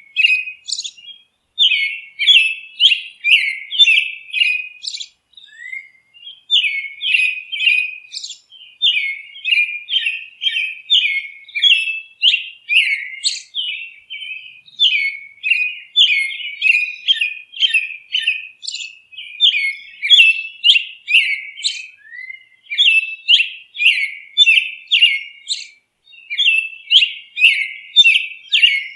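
Birds chirping: runs of short, high chirps, two or three a second, broken by brief pauses.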